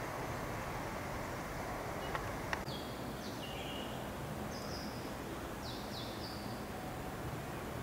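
Steady outdoor background hiss with a bird calling in a few short, high chirps between about three and six seconds in, after two light clicks.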